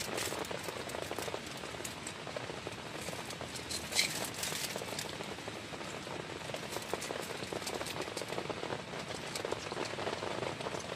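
Steady heavy rain, with many separate drops hitting close by as sharp little ticks, and one louder knock about four seconds in.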